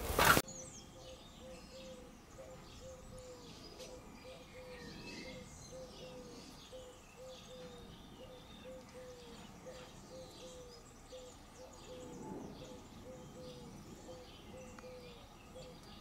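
Garden birds calling faintly, scattered high chirps over a short low note repeated about twice a second. A brief loud burst of noise opens it.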